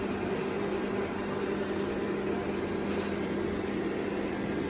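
Steady mechanical hum of a small motor or fan, even and unbroken, with a constant low tone under it.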